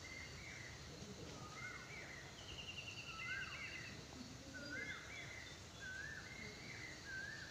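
Birds calling: a string of short whistled notes, each rising then falling, repeating about once a second, with a brief rapid trill about two and a half seconds in.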